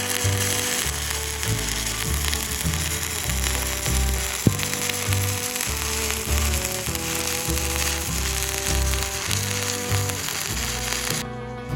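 Stick-welding arc from a 7018 electrode crackling and sizzling steadily while running a 2G root pass. The arc cuts off abruptly near the end.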